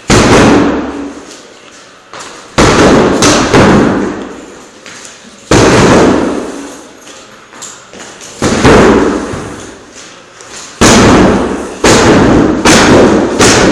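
Heavy punching bag struck hard about ten times at uneven intervals, some blows in quick pairs, each hit dying away over a second or two.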